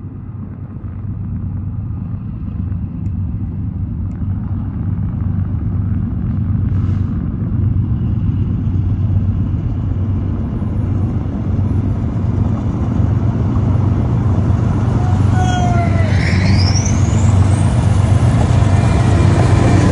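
Diesel locomotives at the head of a BNSF freight train approaching, their deep engine rumble growing steadily louder. A brief rising whine sounds near the end.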